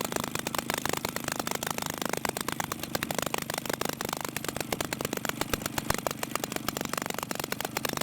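Maytag Model 72D twin-cylinder two-stroke washing-machine engine running steadily while warming up, with a rapid, even stream of firing pulses.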